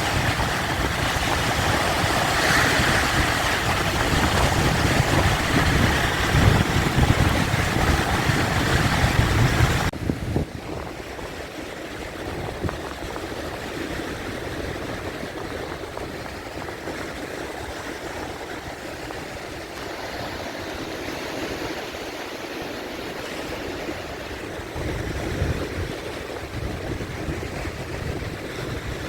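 Sea waves washing and breaking, a continuous rushing surf. About a third of the way in the sound cuts abruptly from a loud, full wash to a softer, duller one.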